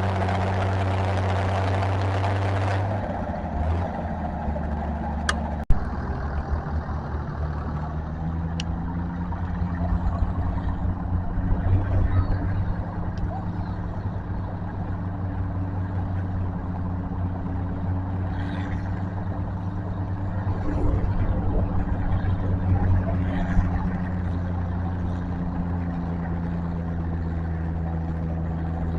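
Tractor engines running at a tractor pull. For about the first three seconds the sound is loud and full; it then changes abruptly to a steadier, lower engine drone with swells of rumble, broken by one sharp knock a little under six seconds in.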